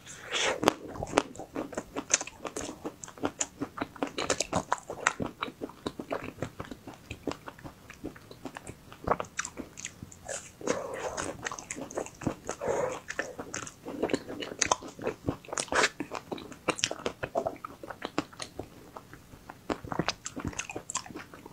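Close-miked biting and hard chewing of a chocolate-coated ice cream bar: the frozen chocolate shell cracks and crunches in many irregular sharp snaps, with mouth sounds between.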